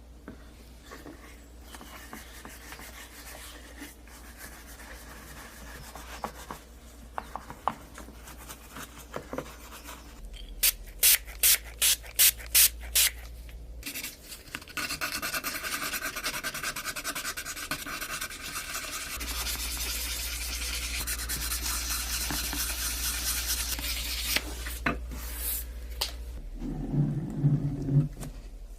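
Rubbing and scraping on a toy truck's metal part: scattered small clicks, a quick run of six sharp taps, then about ten seconds of steady, scratchy rubbing. A few more clicks and a brief low hum come near the end.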